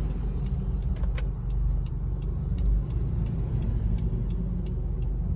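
Low, steady drone of a 2014 Honda Civic's 2.0 four-cylinder engine and exhaust, heard from inside the closed cabin with its Superedition electronic exhaust valve fully closed, the quieter, less bassy setting. A quick, regular ticking, about two to three ticks a second, runs over it.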